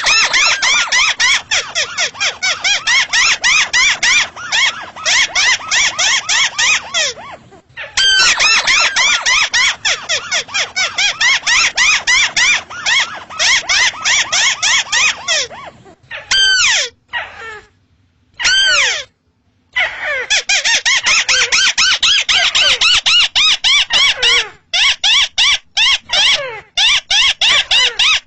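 A rice-field crake (burung tikusan) calling: long runs of rapid, sharp, squealing notes, several a second. The runs break off briefly about seven seconds in, again between about 16 and 20 seconds where only a few separate notes sound, and once more near 25 seconds.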